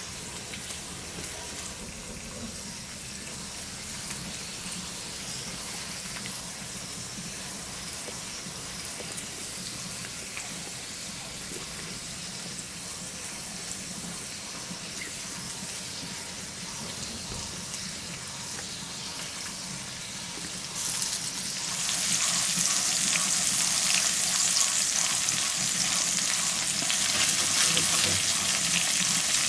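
Dry-aged pork steak frying on a clayware grilling plate, a steady sizzle. About twenty seconds in it jumps much louder and hisses brighter as sliced tomato and zucchini go onto the hot plate and fry.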